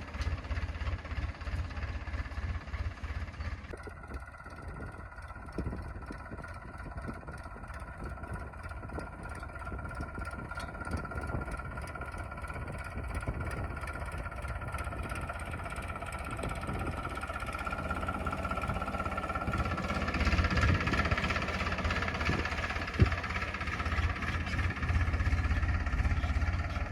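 Tractor diesel engine running steadily, getting louder in the last several seconds.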